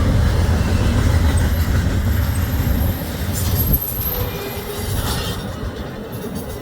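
Norfolk Southern freight train passing close by: rail cars rumbling heavily over the track, with a thin high wheel squeal. The rumble drops off abruptly about four seconds in.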